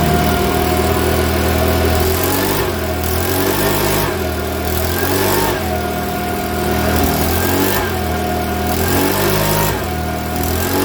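Makita BHX2500 four-stroke leaf blower engine running after its valve clearances were set. It revs up and drops back again and again as the throttle is worked.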